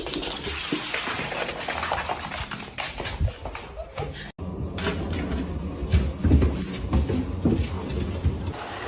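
A dog's sounds amid household noise, with an abrupt cut about four seconds in.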